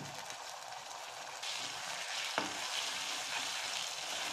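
Chopped vegetables and tomato sauce sizzling in hot oil in a nonstick kadhai, stirred with a wooden spatula. The sizzle turns louder about a second and a half in, and there is a single knock about halfway through.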